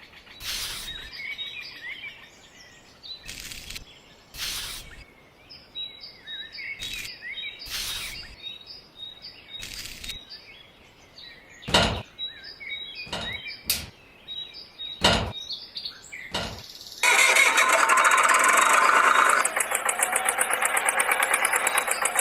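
Small birds chirping, with a series of sharp, separate knocks. About three-quarters of the way through, a loud steady buzzing sound starts suddenly and then pulses rapidly.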